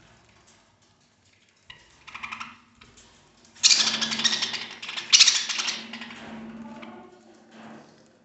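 Pet budgerigars making rapid, rattling clicks and rustles, with two loud spells about halfway through, over a steady low hum.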